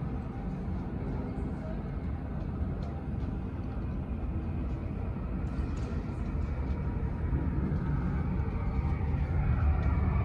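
Airliner jet engines rumbling, growing louder over the last few seconds as a rising whine comes in.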